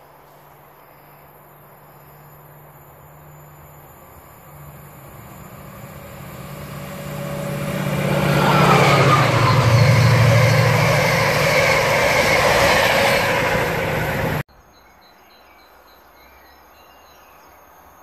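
Chiltern Railways diesel-hauled train of Mk3 coaches passing at speed: a low engine drone grows louder over several seconds as it approaches, then the rush and rumble of wheels on rail as the coaches go by, cut off suddenly about two-thirds of the way through. Faint outdoor background after that.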